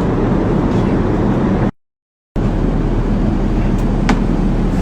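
Steady cabin noise of an airliner in flight, the constant rush of engines and airflow heard from inside the cabin. It drops out to dead silence for about half a second near two seconds in, where two clips are joined, then carries on unchanged, with a faint click near the end.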